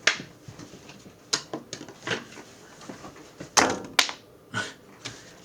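A run of sharp taps and knocks, about eight in all, with the two loudest close together past the middle: thrown playing cards striking objects in a small room.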